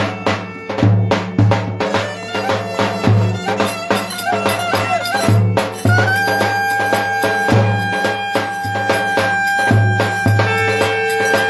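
Turkish folk dance music: a reedy wind melody over a steady, pulsing low beat. The melody holds one long note from about halfway through.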